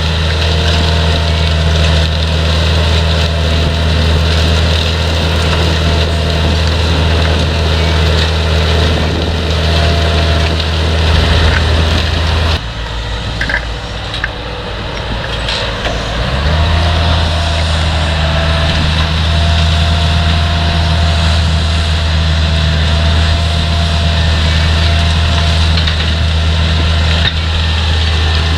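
Potato harvesting machinery at work: a heavy diesel engine drones steadily over the clatter of the harvester. A little before halfway the engine note drops away abruptly, then climbs back up a few seconds later and runs steadily again.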